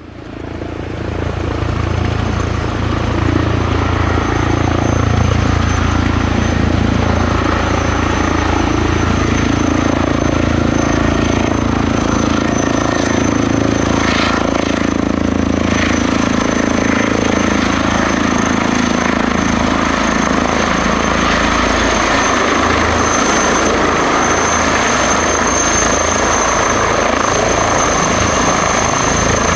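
Airbus Helicopters H160 twin-turbine helicopter landing: steady rotor noise with a thin, high, steady whine over it, swelling in over the first few seconds.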